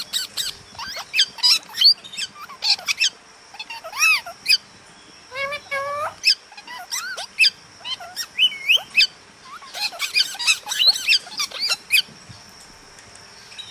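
Parrot chirping and squeaking in rapid runs of short calls that slide up and down in pitch, with a few longer wavering notes; the calling stops near the end.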